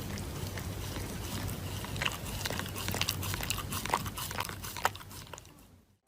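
A dog chewing, with irregular crunchy clicks over a steady background hiss, fading out near the end.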